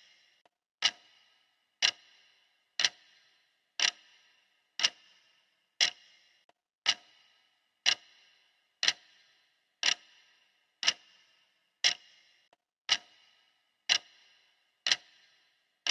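Clock ticking steadily, one sharp tick each second, each tick with a short ringing tail.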